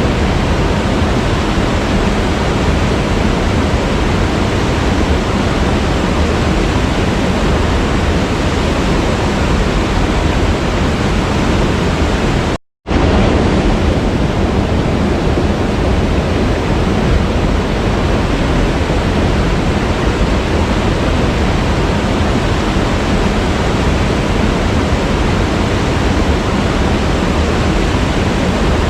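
Steady rushing of a waterfall, a dense even roar of falling water that drops out to silence for a fraction of a second about halfway through, then carries on unchanged.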